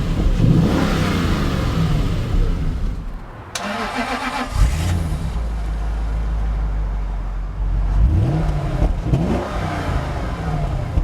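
1997 Jaguar XK8's 4.0-litre V8 being revved, rising and falling in pitch in the first couple of seconds and again about eight seconds in, with a steady idle in between. A sharp knock sounds about three and a half seconds in.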